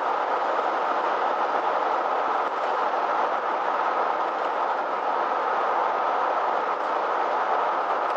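Steady engine and road noise inside a motorhome's cab while driving, an even rumble with no breaks.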